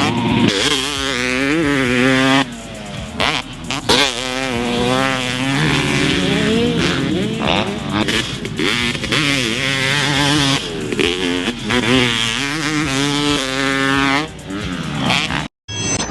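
Pro Circuit-ported Yamaha YZ250 two-stroke dirt bike engine being ridden hard, its pitch rising and falling again and again as it revs and shifts. The sound cuts off abruptly near the end.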